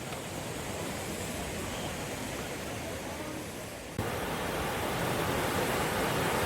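Mountain stream rushing over rocks, a steady noise of running water that turns suddenly louder about four seconds in.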